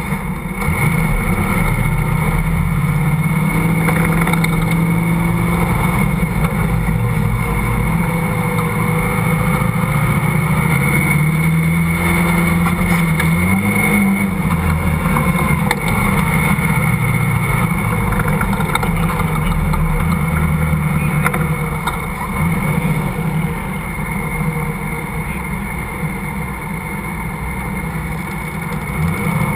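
Car engine running under load while driving over soft sand dunes, its pitch shifting up and down with the throttle, rising briefly about 13 seconds in, and easing off a little after about 22 seconds.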